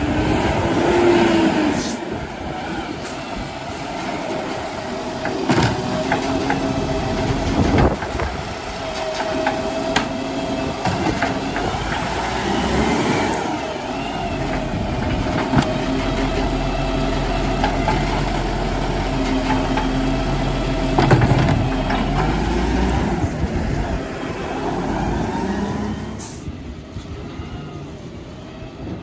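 Garbage truck working: its diesel engine running under a steady whine, with several sharp clanks and knocks, and a deeper rumble building in the middle.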